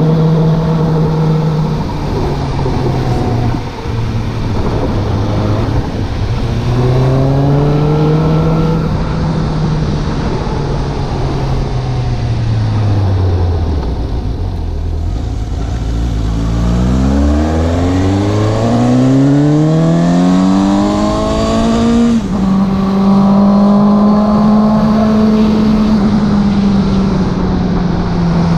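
Suzuki GSX750-AZ motorcycle engine and exhaust on the move. The revs ease off and fall low about halfway through as the bike slows, then rise steeply under hard acceleration. An upshift about three-quarters of the way in drops the revs, and the engine then cruises at a steady pitch.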